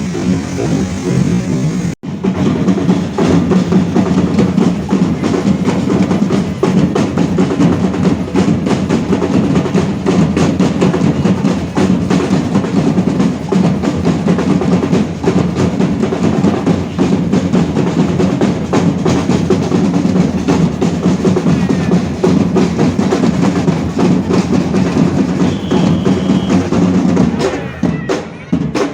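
Fireworks and firecrackers going off in a dense barrage, the bangs so close together that they run into one continuous roll. There is a brief break about two seconds in, and the barrage thins out near the end.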